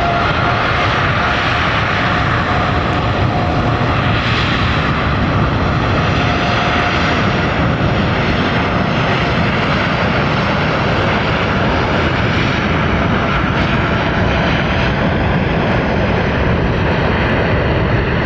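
Boeing 787 jet airliner's engines at takeoff thrust: a loud, steady jet roar with two faint whining tones that drift slowly in pitch.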